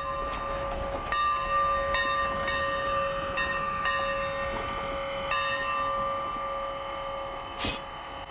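Locomotive bell ringing steadily, struck again about every half second to a second, so its tone keeps sounding throughout. A brief clank is heard near the end.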